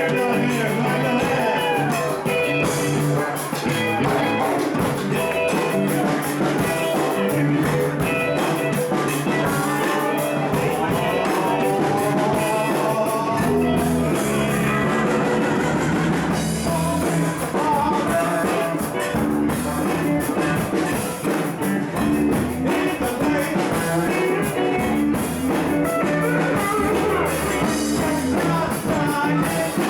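Live rock band jamming: electric guitar lines with bends over bass and drum kit.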